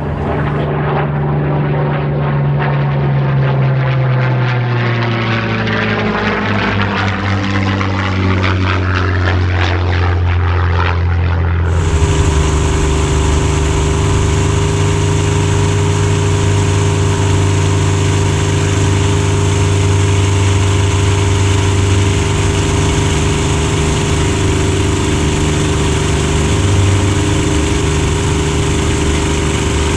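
Rolls-Royce Merlin V12 engine of a Spitfire: first a low pass with the engine note falling as the aircraft goes by, then, after a sudden change about twelve seconds in, a steady engine drone.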